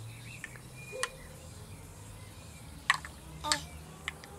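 Small birds chirping faintly in short high calls, with a few sharp clicks about one, three and three and a half seconds in.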